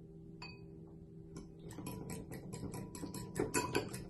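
A fork whisking a beaten-egg mixture in a bowl: one ringing clink of fork on bowl, then quick, even strokes, about six a second, growing louder.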